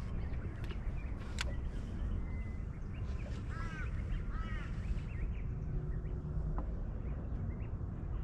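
Birds calling outdoors, a quick run of short arched calls in the middle and another near the end, over a steady low rumble of wind and water, with a few sharp clicks in the first second or so.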